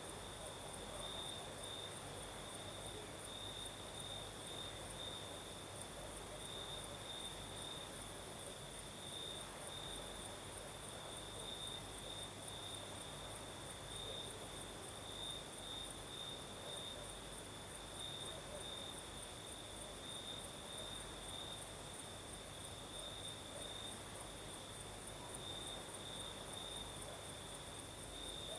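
Crickets singing in a steady night chorus: one pulsing trill at a high pitch and a second, even higher and finer one above it, over a soft, even breeze hiss.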